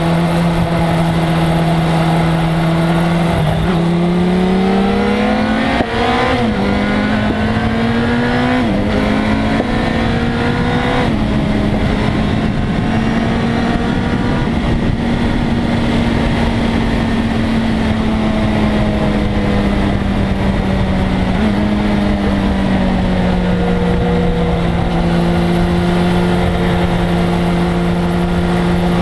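1997 Suzuki GSX-R1100's inline-four engine under way: it revs up and shifts up three times in quick succession, then holds a fairly steady note that slowly falls, with another shift about two-thirds of the way through.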